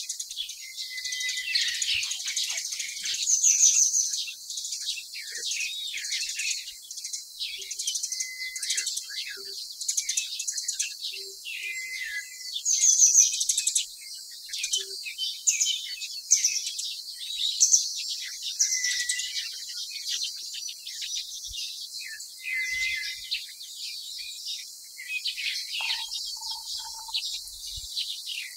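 Small birds chirping and twittering throughout, many short high calls overlapping one another over a steady high hiss.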